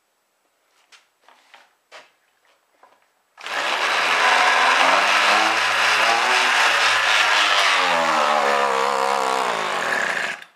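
McCulloch two-stroke weed eater engine, cold-started on model-airplane nitro fuel, catches abruptly about three seconds in. It runs loudly for about seven seconds with its pitch wandering up and down, then cuts off suddenly.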